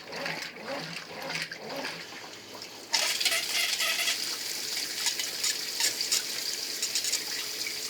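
Brastemp Ative 11 kg top-load washing machine sloshing its load in rhythmic agitation strokes. About three seconds in, the agitation stops and water suddenly pours into the tub with a steady hiss: the machine is topping up after sensing too little water for the selected level.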